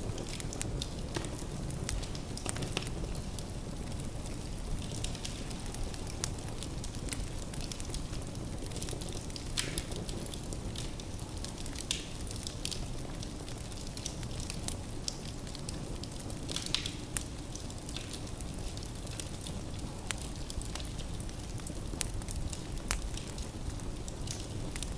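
Firewood burning in a fireplace: a steady low rumble of flames with irregular crackles and pops, a few sharper pops standing out.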